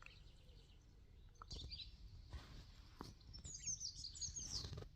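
Wild birds singing in the background: faint, quick high-pitched chirping phrases, once a second and a half in and again for the last second and a half.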